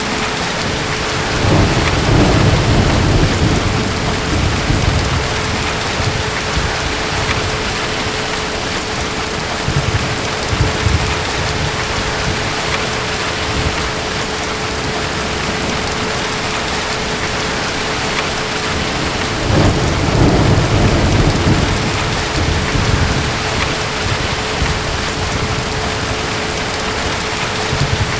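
Steady heavy rain with distant thunder rumbling low, once about two seconds in and again about twenty seconds in, with a softer rumble in between. A faint steady hum runs underneath.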